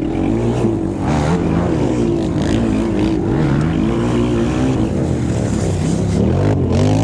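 Quad (ATV) engine running with its revs rising and falling over and over, then climbing into a steadier, higher pitch near the end.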